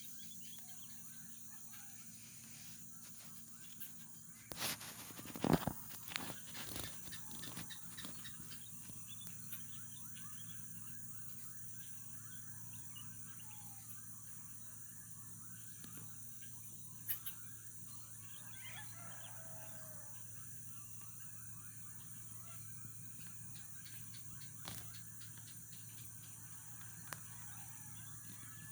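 Tropical morning birdsong: many small bird calls and chirps over a steady high hiss, with a cluster of louder, sharper calls or knocks about five seconds in.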